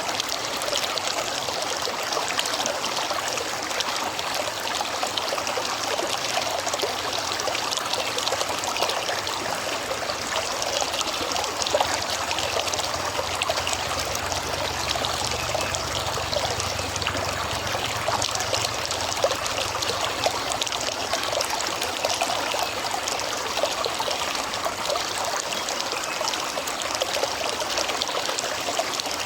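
River water flowing and trickling in a steady, even rush.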